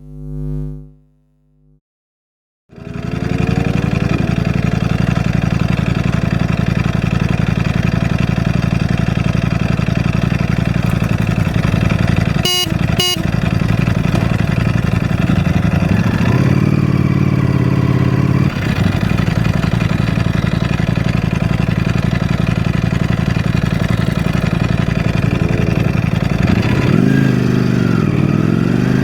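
Motorcycle engine idling steadily. It cuts in abruptly about three seconds in, after a short tonal sound, and has two sharp clicks near the middle. A few brief revs come near the end, then a rising pitch as it starts to accelerate.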